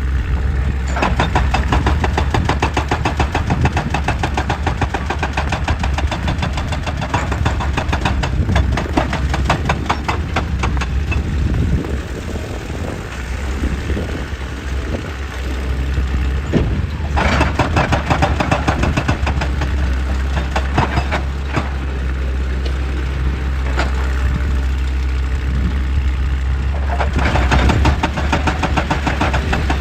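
Excavator's diesel engine running under load, with three long spells of rapid, evenly repeated striking and rattling over its steady drone as it works on rock.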